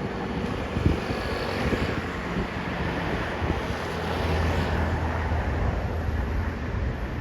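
Vehicle engine running with a steady low hum, amid road noise and wind buffeting the microphone; no siren is sounding.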